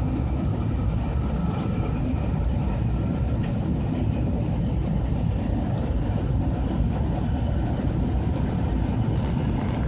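Steady running noise of an E2 series Shinkansen at speed, heard inside the passenger cabin: an even low rumble with a few faint ticks near the end.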